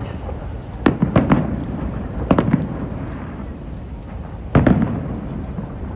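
Aerial fireworks shells bursting: a string of sharp booms in three clusters, about a second in, about two and a half seconds in, and near five seconds in, each followed by a low rumbling echo.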